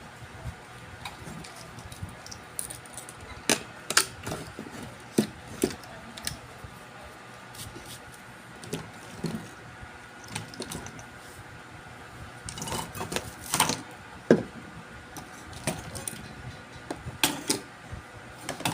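Small tools and parts clicking and clinking irregularly as they are handled at an electronics workbench, over a faint steady hum.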